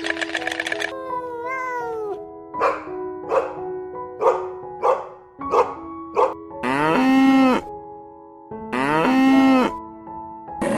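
A dog barking about six times in short sharp barks, then giving two longer drawn-out calls, over background music.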